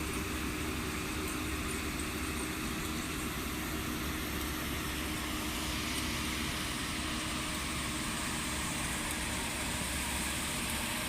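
Harvesting machine's engine running steadily: an even low drone with a constant hum and a wash of mechanical noise, with no change in speed.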